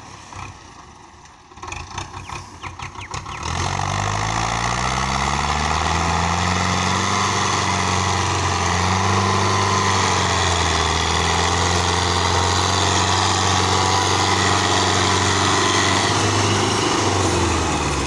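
Belarus 510 tractor's diesel engine: a few uneven chugs, then it revs up about three and a half seconds in and runs hard and steady at high revs, dropping back near the end.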